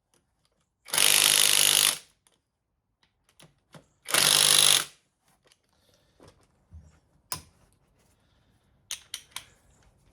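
A power tool runs in two bursts of about a second each, undoing bolts on the engine's brackets. After that come several light metal clinks and knocks as the parts are handled.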